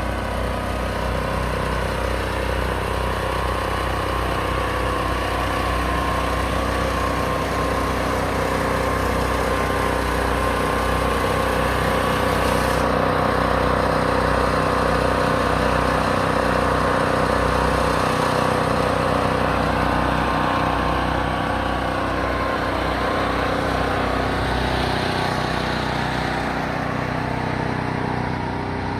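Box truck engine running steadily, getting a little louder through the middle and easing off again.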